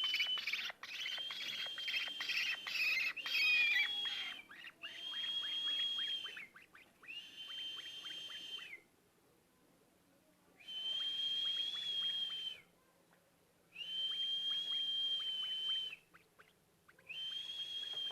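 Birds calling: a busy overlap of high calls at first, then a repeated call roughly every three seconds. Each call is a high, steady, fast-pulsing note lasting one to two seconds that drops away at its end.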